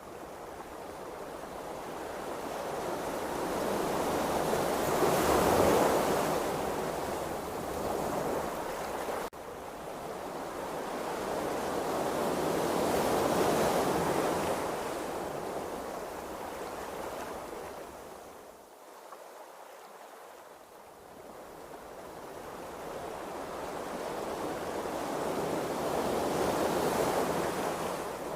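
Ocean waves rushing in slow swells, rising and falling three times, with a quieter lull about two-thirds of the way through.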